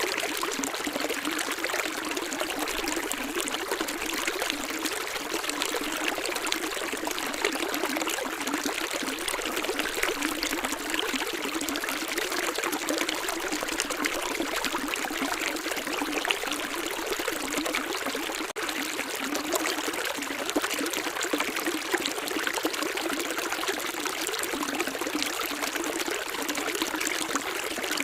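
Running water, a small stream trickling and splashing steadily, with a momentary break in the sound about two-thirds of the way through.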